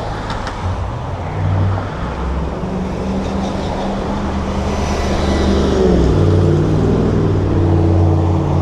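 City road traffic heard from a bicycle: motor vehicle engines running close by, with one engine's pitch shifting about six seconds in.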